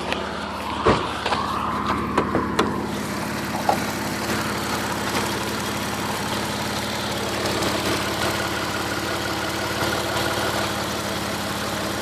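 Car engine idling steadily at about 600 rpm, with several sharp knocks and clacks in the first four seconds.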